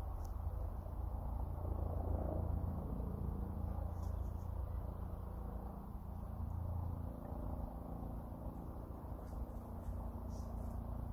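Low, steady rumble of a distant helicopter, with a few faint high chirps about four seconds in and again near the end.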